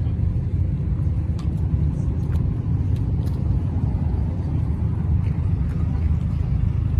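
Steady low rumble of car engines running, with a few faint clicks.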